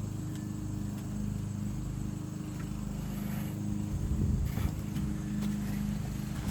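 An engine running steadily at an even low pitch, with a few short knocks about four seconds in.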